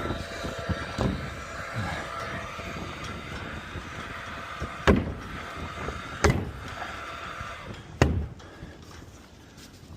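Several sharp knocks, the three loudest about five, six and eight seconds in, over a faint steady hum.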